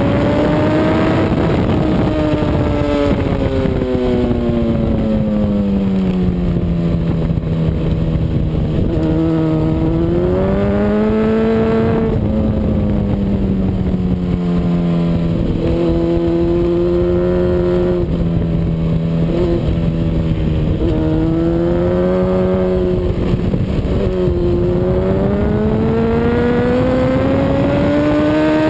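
Honda CBR RR sport bike's inline-four engine heard on board at speed, its pitch rising and falling again and again as the throttle is opened and closed, with wind rushing over the microphone throughout.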